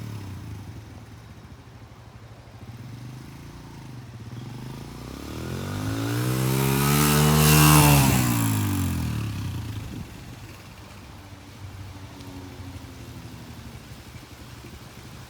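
Suzuki DR-Z125 dirt bike's single-cylinder four-stroke engine running as the bike rides by: it grows louder and higher in pitch, is loudest about eight seconds in, then falls in pitch and fades to a fainter drone.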